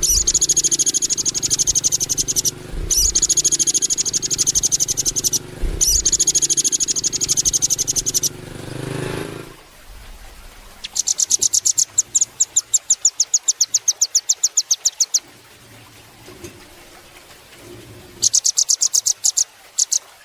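Velvet-fronted nuthatch (rambatan paruh merah) giving fast, high-pitched trills of repeated chipping notes. Three quick bursts of about two seconds each are followed by a longer, slightly slower run of notes around the middle, and another short burst near the end.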